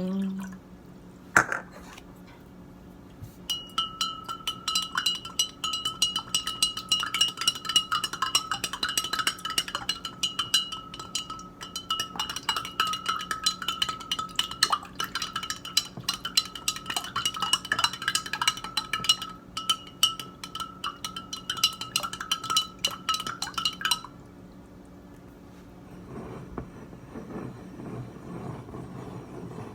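A metal spoon stirring water fast in a drinking glass, clicking rapidly against its sides so that the glass keeps up a steady ringing tone. It starts a few seconds in and stops abruptly about six seconds before the end, after a single sharp clink just before it begins.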